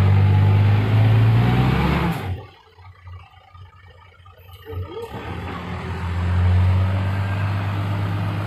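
Six-wheel dump truck's diesel engine running hard under load. The sound cuts off abruptly about two seconds in, is much quieter for about three seconds, then the engine comes back and rises again.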